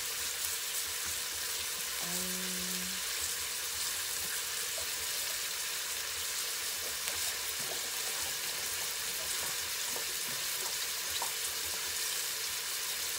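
Smoked turkey pieces and onions sizzling in olive oil in an Instant Pot on sauté, a steady frying hiss with small scattered crackles. A brief low hum sounds about two seconds in.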